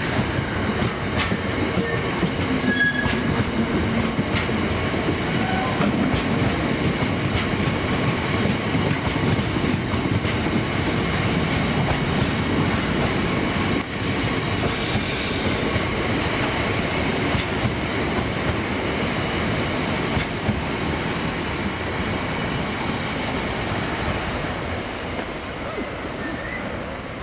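Freight train of loaded bogie tank wagons rolling past close by: steady rumble and clatter of wheels on the rails, with a faint thin wheel squeal. About halfway the sound drops for a moment, and near the end the train is heard running away and fading.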